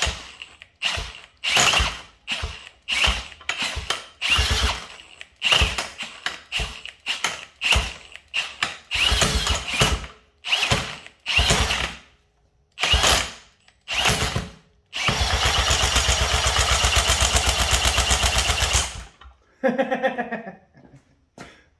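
Power drill spinning the flywheel of a 1960s Mercury two-stroke outboard to crank it in place of its broken recoil starter: about a dozen short bursts, then one steady crank of about four seconds with a fast even pulse as the engine turns over. It does not start, and a new spark plug is tried next.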